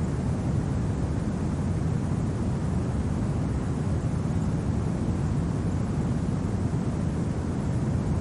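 Steady low rumbling winter wind ambience, even and unbroken, with most of its weight in the low end and no crackles or other events.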